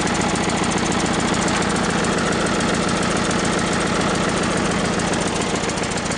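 Briggs & Stratton engine of a 12-horsepower Craftsman lawn tractor running steadily with a fast, even beat, just after a cold start.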